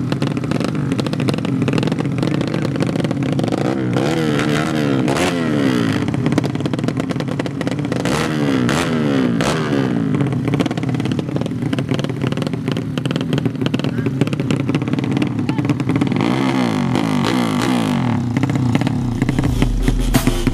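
Underbone motorcycle engines revving hard, their pitch climbing and dropping again and again, with several engine notes crossing one another. Voices can be heard under the engines.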